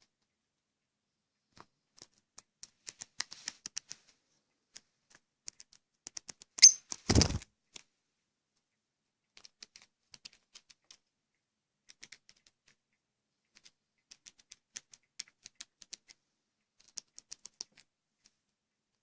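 A lovebird pecking and tapping with its beak: irregular runs of light sharp clicks, with one louder thump about seven seconds in.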